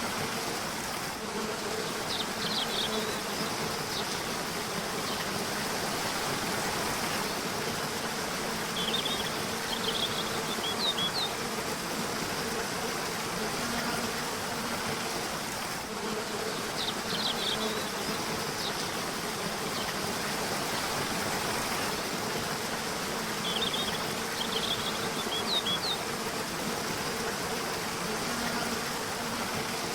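Steady rushing of a river or waterfall, with a low insect-like buzz that swells and fades every few seconds. Small groups of short, high bird chirps come every six or seven seconds.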